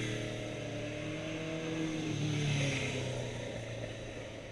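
Cruiser motorcycle engine running just after being restarted with a key off-and-on reset, revving up to a peak about two and a half seconds in and then dropping back toward idle.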